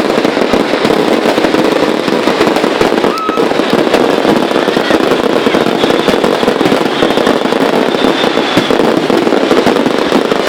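Dense, unbroken barrage of fireworks: many overlapping bangs and crackles, loud and continuous with no pause.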